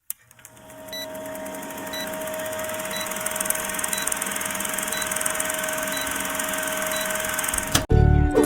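A steady electronic hum and hiss swells up over the first couple of seconds, with a short high beep about once a second. It cuts off near the end, and cheerful children's music with jingly notes starts.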